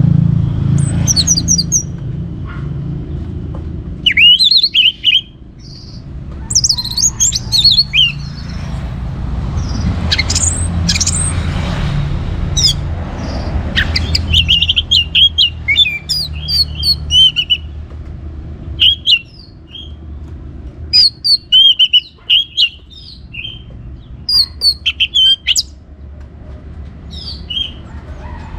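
Orange-headed thrush singing in short, quick phrases of varied high whistles and chattering notes, with gaps between phrases. A steady low rumble runs underneath.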